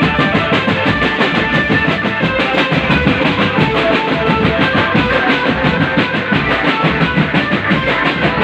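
Loud band music: dense, fast drumming under a melodic line of short held notes, playing without a break.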